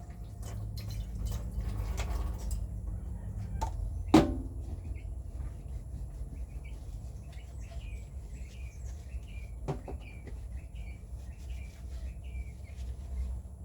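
A single clank with a short ring about four seconds in, among a few lighter knocks. Then small birds chirp over and over in the background, over a low steady rumble.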